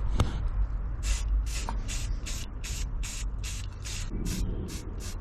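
Aerosol spray paint can hissing in rapid short bursts, about four a second, starting about a second in, as the routed letters are painted through masking tape.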